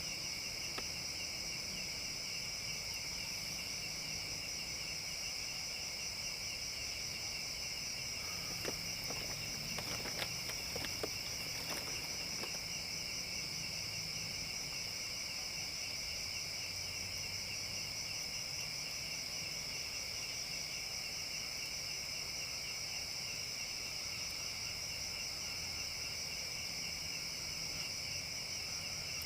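Steady chorus of forest insects trilling in two high bands, with a few light clicks about nine to twelve seconds in.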